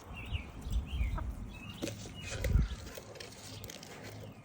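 Birds giving short, high, falling chirps several times, over low rumbling thumps, the loudest about halfway through.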